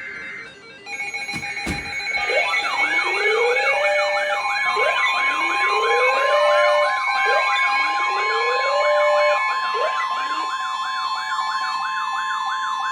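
Alert sound built from several electronic sirens layered at once: steady alarm tones, a fast up-and-down warble and slow rising wails that repeat every couple of seconds. It starts about a second in, more tones join as it goes, and it is sounding as an alert ahead of a severe thunderstorm warning.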